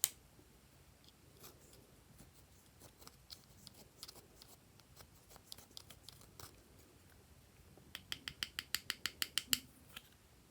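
Glossy slime being worked by hand, giving small sticky clicks and pops: a sharp click at the start, scattered clicks after it, and a quick run of about a dozen clicks near the end.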